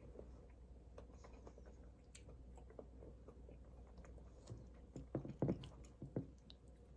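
Scattered light clicks and taps from small objects being handled, with a few louder dull knocks about five seconds in.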